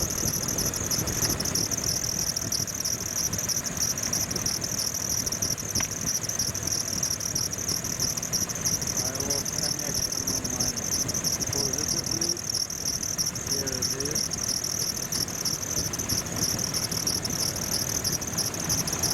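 1999 Jeep Grand Cherokee WJ engine idling steadily, with a continuous high-pitched chirring over its low running sound.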